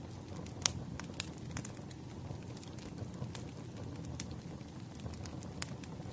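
Wood fire crackling: a steady low rumble with irregular sharp pops, a few of them louder.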